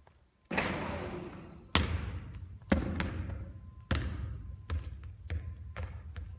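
Basketball bouncing on a hard gym floor, about six sharp bounces with echo, coming quicker toward the end.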